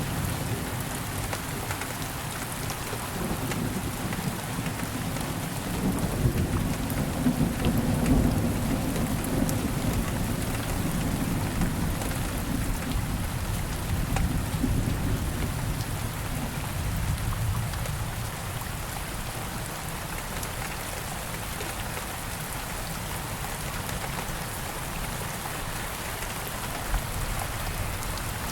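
Steady rain falling, with a low rumble of thunder through the first half that dies away after about seventeen seconds, leaving the rain on its own.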